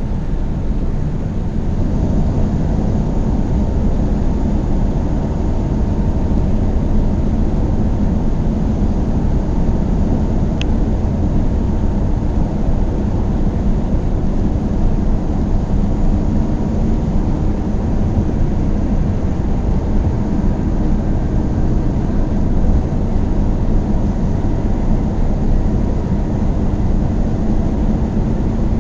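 A car driving at steady speed: a low, constant rumble of engine and tyre road noise. A brief faint tick about ten seconds in.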